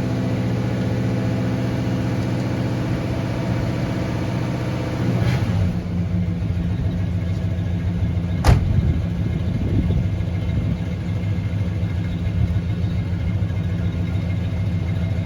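1972 Chevrolet Monte Carlo's 350 small-block V8 with a two-barrel carburettor idling steadily. About five seconds in, the idle drops to a lower speed as it comes off fast idle. A single sharp knock comes a few seconds later.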